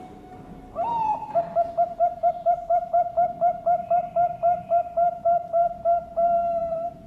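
Perkutut bangkok (zebra dove) singing its contest song: a rising opening note, then a quick run of short coos at about four a second, ending in one longer held coo.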